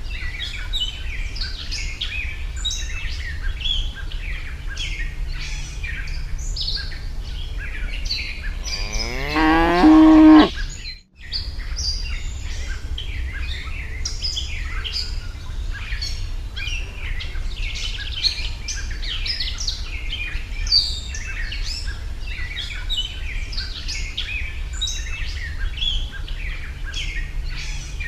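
A cow moos once about nine seconds in: a loud call of about a second and a half that rises in pitch and cuts off abruptly. Birds chirp all through, over a steady low hum.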